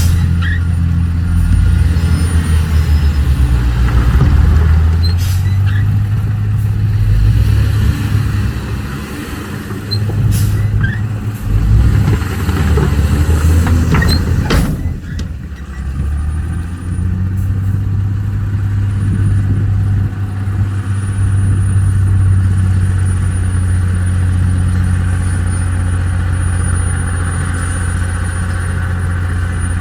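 Heavy diesel dump truck engine running at low revs, its rumble swelling and easing. A few short sharp clanks or hisses break in, the clearest about halfway through.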